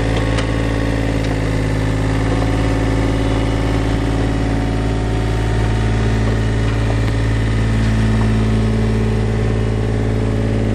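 Mini excavator's diesel engine running steadily, rising slightly about eight seconds in.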